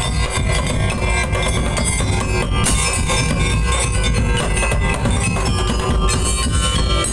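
Madurese daul ensemble playing: dense, loud drum and percussion rhythm under sustained melodic instruments.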